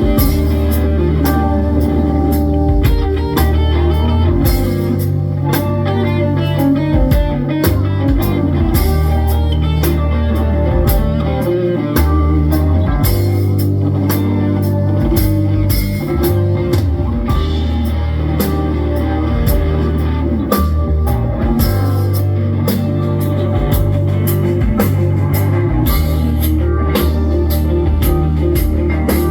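Live rock band playing an instrumental passage: guitar over a drum kit, with sustained low bass notes that change every few seconds.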